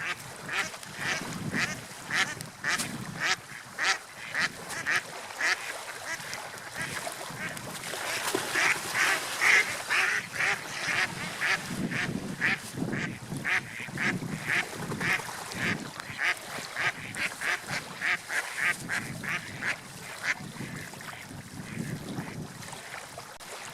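Seagulls calling in a dense run of short, repeated calls, several a second, loudest about nine to ten seconds in, over a low rush of waves.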